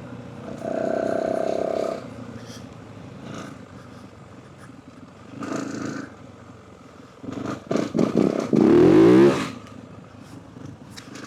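Yamaha WR450F single-cylinder four-stroke dirt-bike engine under way. It holds a steady note for about a second near the start, backs off, gives a short burst of throttle about five and a half seconds in, then revs up and down hard from about eight seconds in, the loudest part.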